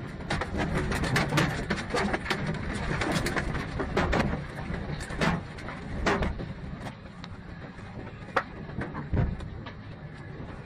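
Irregular clatter of many sharp knocks and impacts over a low rumble, densest in the first half and thinning toward the end.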